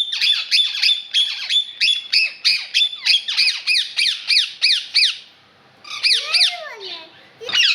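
A pet bird squawking in a fast, even series of sharp high calls, about three a second, for about five seconds; after a short pause it gives a few more calls near the end.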